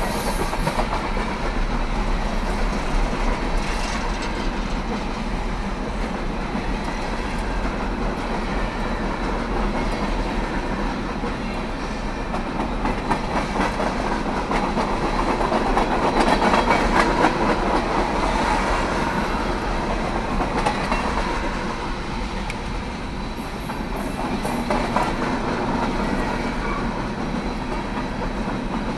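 Freight cars of a Norfolk Southern train rolling past: a steady rumble and clatter of steel wheels over the rail joints, a little louder about halfway through.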